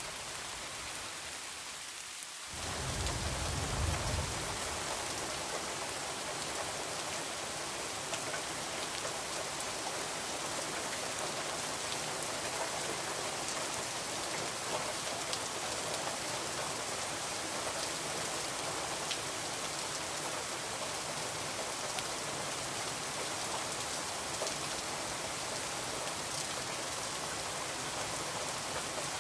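Heavy rain falling steadily. About two and a half seconds in it grows louder, with a brief low rumble underneath.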